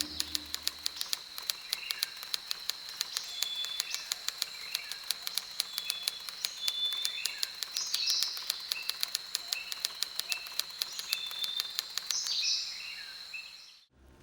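Wild birds giving short high chirps over a steady high-pitched drone and rapid ticking, fading out near the end.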